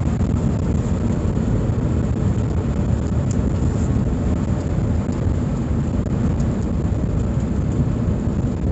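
Steady engine and road noise inside the cab of a Suzuki Super Carry mini truck driving along.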